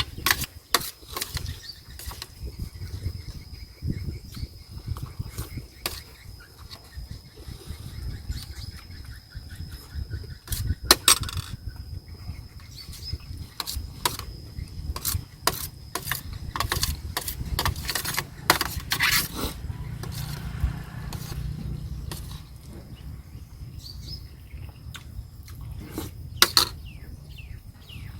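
Eating at a plate of chicken rice: frequent sharp clicks and clinks of a spoon against the plate, mixed with chewing. A faint steady high-pitched tone runs underneath.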